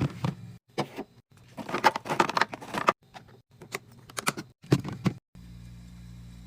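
Groceries and containers handled while restocking a fridge: sharp clicks and knocks of items being set down, a burst of crinkling packaging in the first half, then a steady low hum from about five seconds in.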